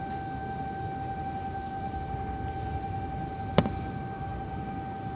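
Airliner cabin noise while taxiing: a steady high whine over a low rumble, with one sharp click about three and a half seconds in.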